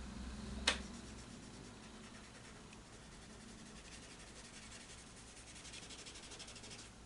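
Cotton swab rubbing colored pencil on paper to blend it, a faint steady scratching that grows a little near the end. A single sharp click comes just under a second in.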